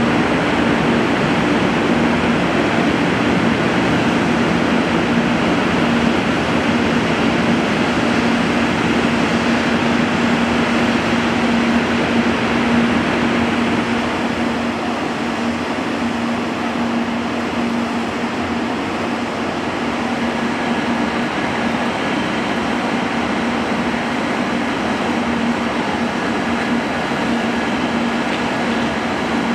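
Steady whir and hum of a Shinkansen train's machinery, with a constant low tone underneath, easing off slightly about halfway through.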